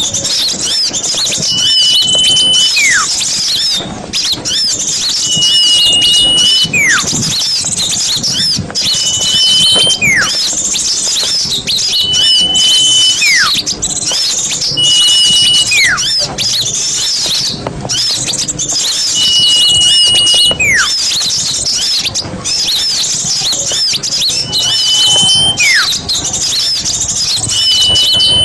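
Small-bird lure call (pikat) recording: a dense chatter of many small birds' high chirps, with a held whistle that slides down in pitch, repeating about every three seconds as in a loop.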